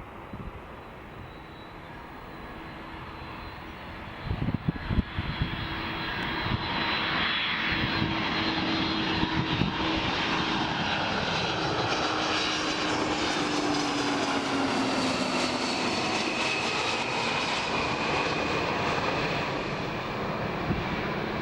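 Airbus A300-600F freighter's turbofan jet engines growing louder as the airliner comes in to land, then passing by with the pitch of their whine dropping. There are a few bumps of wind on the microphone about four seconds in.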